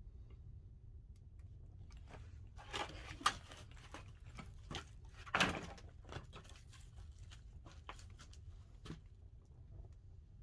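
Pine firewood burning in a wood-fired kiln, crackling and popping with scattered sharp snaps, and two louder crunching bursts about three seconds and five and a half seconds in.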